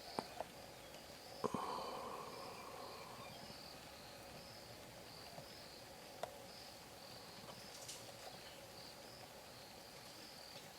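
Insects chirping in a steady high pulse, about two chirps a second, with a few faint sharp clicks and a short rustle about a second and a half in.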